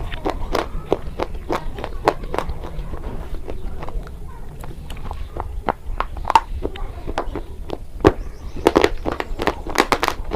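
Close-up crunching and chewing of brittle slate pencil, baked clay or chalk in the mouth: a run of crisp crunches, a few each second, coming thickest near the end.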